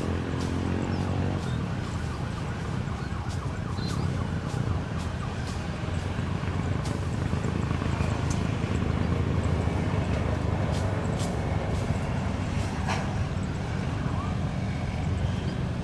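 Steady drone of a private jet's engines and cabin noise heard from inside the cockpit while the aircraft is on the ground before takeoff, with a few sharp clicks.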